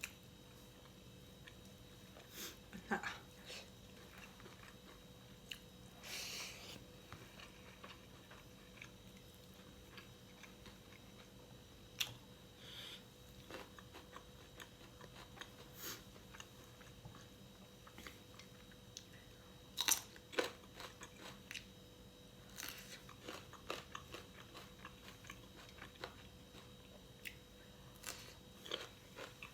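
Close-miked mouth sounds of eating pork: scattered crunchy bites and wet chewing, with the loudest bites about 20 seconds in.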